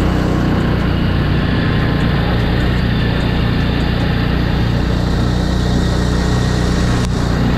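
Snowmobile engine running steadily while riding, with one short knock about seven seconds in.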